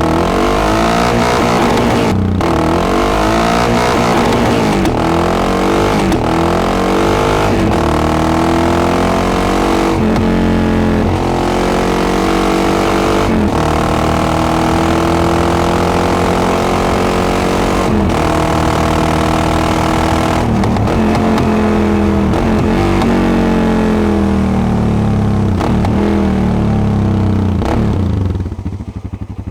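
Yamaha XTX 660's single-cylinder four-stroke engine through a Devil carbon exhaust, accelerating hard again and again: the pitch climbs and then breaks at each gear change. Near the end it drops off the throttle and goes quieter.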